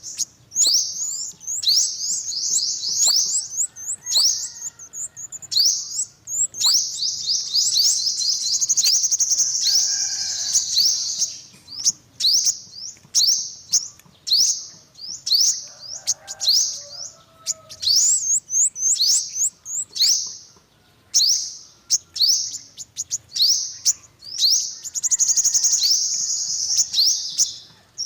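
Yellow-bellied sunbird singing: fast runs of high, thin chirps, each a quick downward sweep, strung into dense trills with short breaks and a longer pause about two-thirds of the way through.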